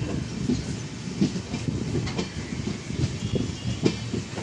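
Passenger train running along the track, heard from inside the coach: a steady low rumble of the wheels with several sharp, irregular clacks as they cross rail joints and points.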